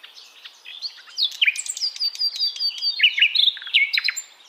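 A songbird singing a fast, varied phrase of high whistles, sharp downward-sweeping notes and clicks, fading out near the end.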